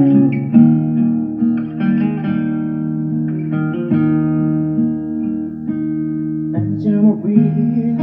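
Instrumental guitar music: plucked guitar notes ringing over a steady bass line, leading into a sung love ballad.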